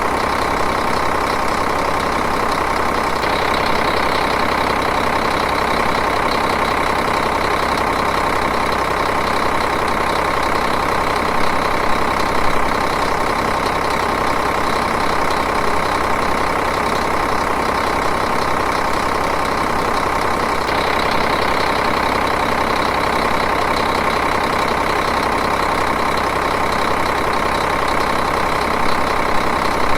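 Diesel engine idling steadily, with an even, fast rhythmic clatter.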